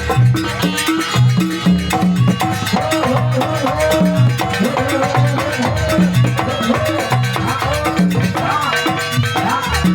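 Live East Javanese jaranan ensemble music from a gamelan-type band: drums and gong-chime percussion play a driving repeated rhythm under a melodic line.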